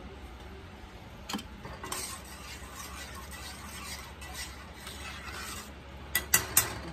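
Spoon stirring seasoned rice and broken pasta in a cooking pot, a soft scraping, with a sharp clink about a second in and several clinks of metal on the pot near the end. A steady low hum runs underneath.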